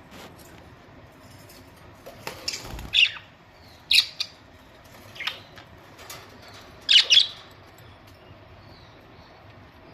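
Pet budgerigars giving a handful of short, loud, harsh chirps and squawks between about two and seven seconds in. There is a brief low thump near the middle.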